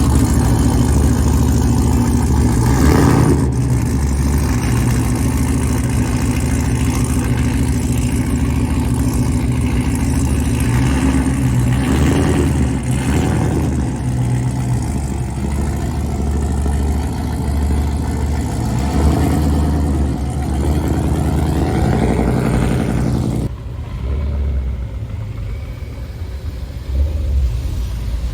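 Modified car engine running loudly at low revs, with a few short revs, about three seconds in, around twelve seconds in and again near twenty-two. The sound drops off sharply past three quarters of the way through, leaving a quieter engine.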